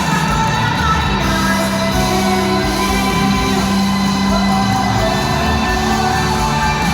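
Live worship music: a band playing with sustained keyboard-like held chords and bass, and singing over it.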